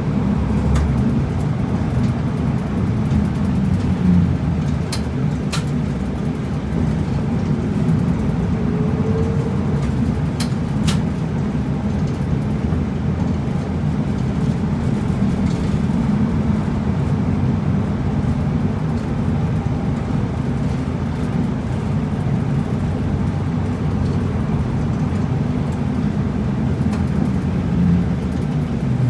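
Route bus running steadily, heard from inside the cabin: a constant low engine and road rumble, with a few faint ticks or rattles about five and eleven seconds in.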